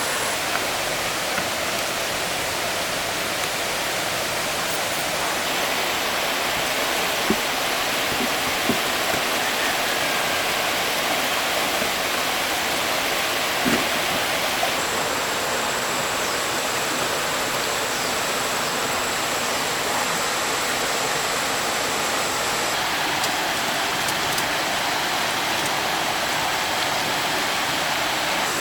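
Steady rushing of stream water, with a few brief light knocks.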